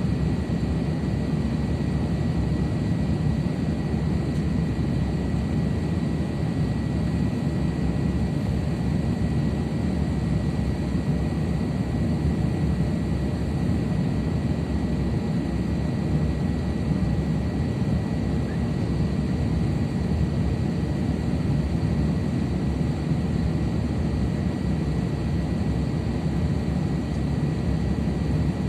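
Steady in-flight cabin drone of an Airbus A350-900: engine and airflow noise, strongest in the low range, with a faint steady high tone above it.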